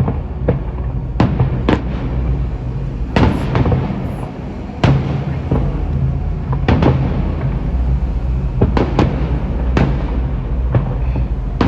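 Fireworks display: aerial shells bursting in an irregular run of sharp bangs, a dozen or more, the loudest about five seconds in, over a steady low rumble.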